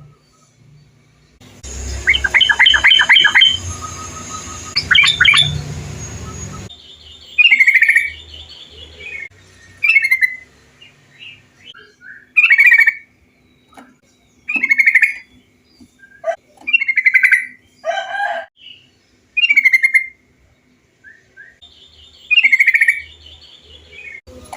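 Yellow-vented bulbuls (trucukan) calling: short bubbly phrases repeated every two to three seconds. Near the start, a noisier recording carries a quick run of chattering notes.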